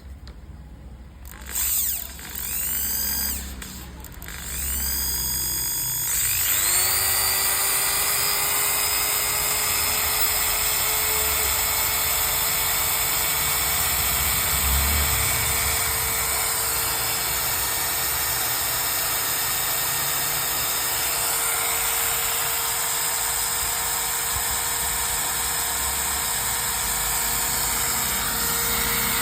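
MAKTEX 230 W electric drill motor briefly spun up twice, then started again about six seconds in and run with a steady whine.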